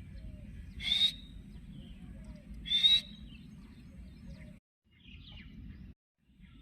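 Pet parrot giving two short, shrill calls about two seconds apart, each ending in a quick rising whistle, then a fainter chirp.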